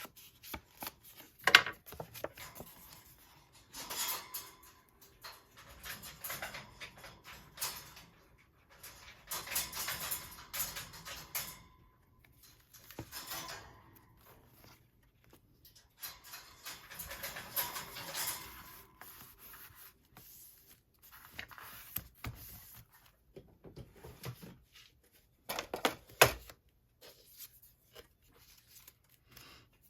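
Paper being handled at a craft desk: rustling in irregular bursts of a second or two, with a couple of sharp clicks, one about a second and a half in and a louder one near the end.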